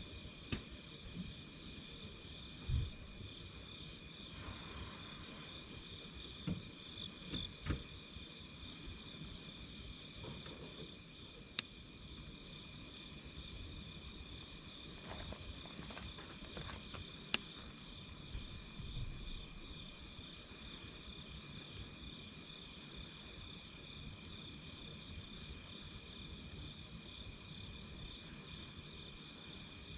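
Insects chirring steadily at a high pitch, with occasional sharp pops and crackles of a wood campfire scattered through, the loudest pops about three and seventeen seconds in.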